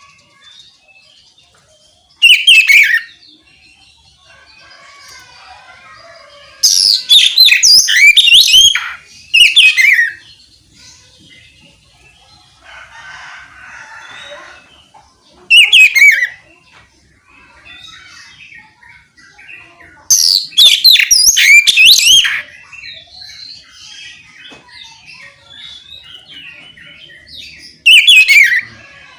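Oriental magpie-robin (kacer) singing loud 'ngeplong' phrases of quick, sweeping, mostly falling whistles, in six bursts of one to two seconds separated by pauses. Fainter chirps fill the gaps.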